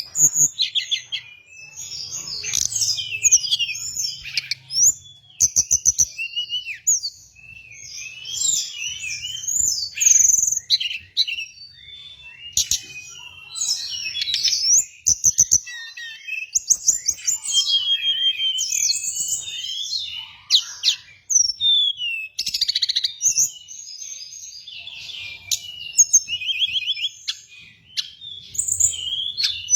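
Tledekan gunung songbird singing continuously: a busy run of high chirps, short whistles and fast rattling trills with hardly a pause, as used for a lure and training recording.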